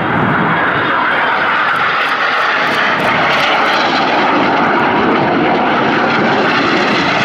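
BAE Hawk T1 jets flying a display pass: steady, loud jet engine noise from their Rolls-Royce Adour turbofans, holding at an even level throughout.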